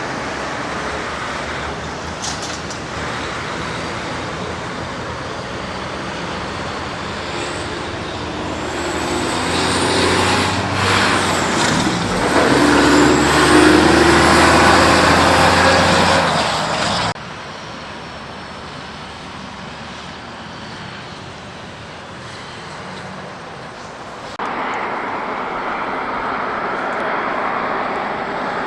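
Mack heavy truck driving past on the road: engine and tyre noise swell as it draws close, then the sound cuts off abruptly into quieter road noise and jumps louder again near the end.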